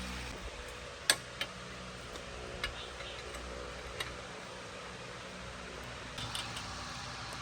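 A few sharp clicks and taps of hard objects, the loudest about a second in, with a small cluster near the end, over a steady low hum.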